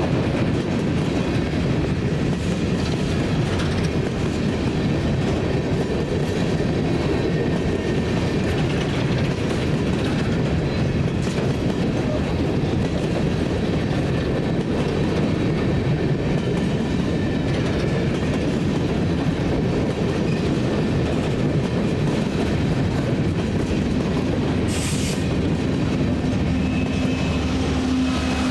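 Open-top coal cars of a freight train rolling past close by: the steady rumble and clatter of steel wheels on rail. About 25 s in, the low steady drone of an approaching diesel locomotive's engine starts to come in under the wheel noise.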